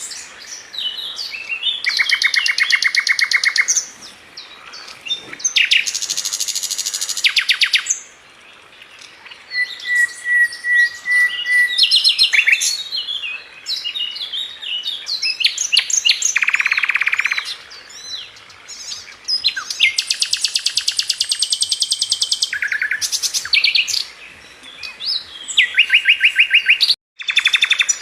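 Sikatan London flycatcher singing: fast rattling trills of a second or two each, alternating with quick varied chirps and one steady thin whistle. The sound drops out for an instant near the end.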